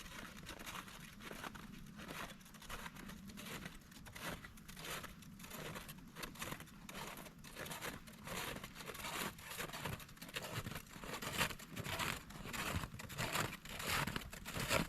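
Footsteps crunching in snow, about two steps a second, growing louder toward the end as the walker comes closer.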